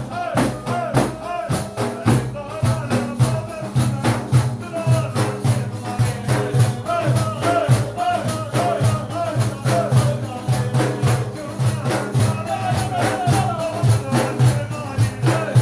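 Sufi madih: voices chanting a devotional melody over a fast, steady beat of hand-struck frame drums with jingles.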